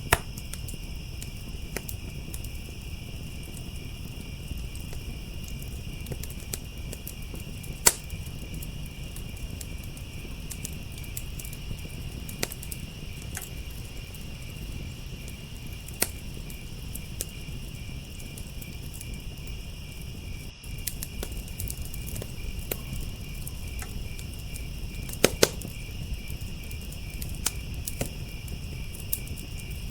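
A steady chorus of crickets chirping, with a wood fire in a firepit crackling and giving occasional sharp pops, a few of them close together about three-quarters of the way through.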